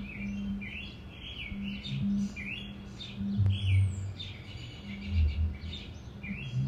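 Birds chirping in short, falling calls that repeat about twice a second. Underneath, a low hum swells a few times and is the loudest sound at those moments.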